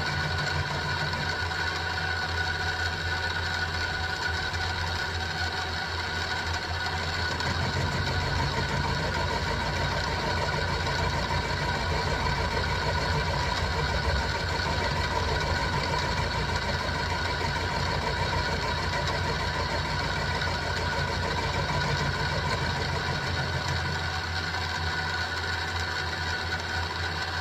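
Benchtop mini milling machine (SIEG X2-type) running with a steady motor and gear whine while its end mill takes a deeper cut in 1045 steel. A heavier low rumble comes in about a quarter of the way through and eases off near the end as the cutter is under more load.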